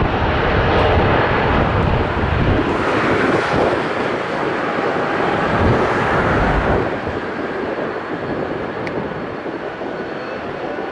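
Airbus A380-800's four Rolls-Royce Trent 900 jet engines roaring as the airliner departs, loud and broad, easing off about seven seconds in.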